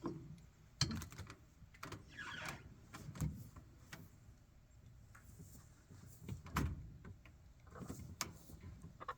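Irregular clunks and knocks with a short scrape about two seconds in: chicken-tractor gear being handled while the chickens' water and feed are tended.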